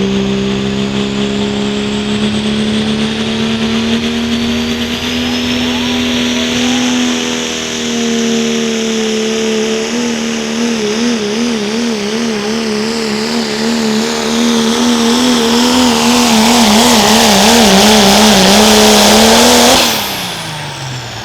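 A 3.0 Limited Pro class diesel pull truck at full throttle dragging the weighted sled, a loud steady engine drone with a high whine rising above it. From about halfway the engine pitch wobbles rapidly and climbs, then the engine is cut suddenly near the end and winds down.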